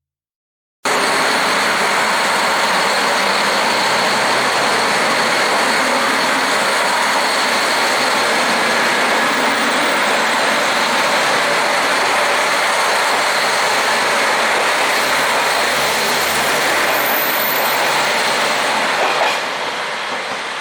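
KiHa 261 series diesel express train running at speed: a loud, steady rush of wheel and rail noise that cuts in sharply after about a second of silence and eases slightly near the end.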